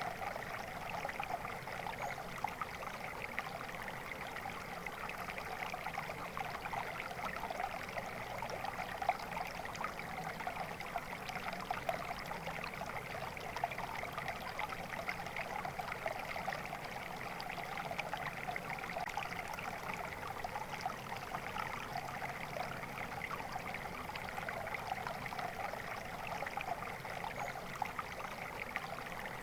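Flowing water, running steadily without a break.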